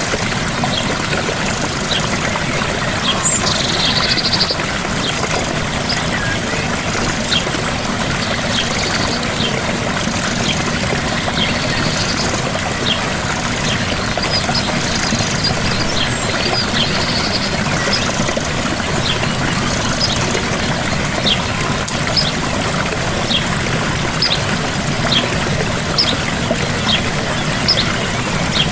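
Gentle waterfall: a steady rush of falling water, with short high chirps about once a second over it.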